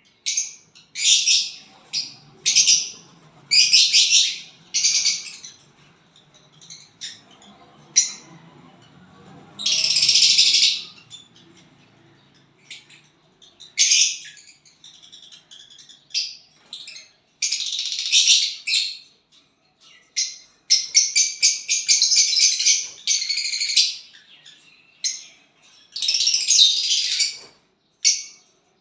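A small pet bird chirping and singing in repeated high-pitched bursts, each lasting from a fraction of a second to about a second, with short pauses between them and a few longer runs of rapid chirps.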